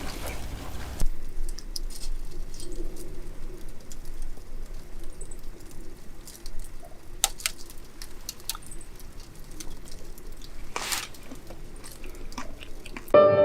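Wood campfire crackling, with scattered small clicks and two sharp pops about four seconds apart. Music comes in right at the end.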